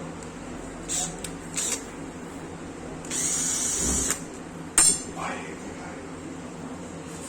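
A small power drill-driver runs steadily for about a second, with a few sharp clicks of metal parts being handled before and after it.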